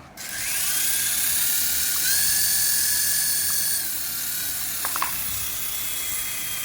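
Small electric motor of a radio-control toy whirring. It spins up at the start, speeds up about two seconds in, then drops back to a lower steady whine just before four seconds, with a couple of faint clicks near five seconds.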